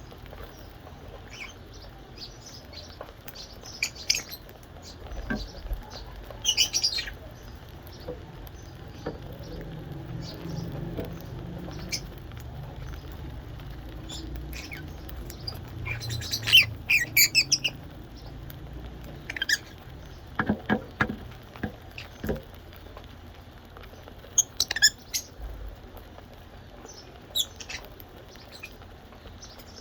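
Small pet birds giving short, high chirps and squeaks in scattered clusters as they feed on soft food, with a few sharp clicks and taps.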